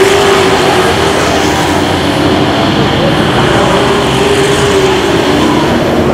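Race truck engines running hard on a short oval track, a loud continuous drone whose pitch wavers up and down slightly as the trucks go around.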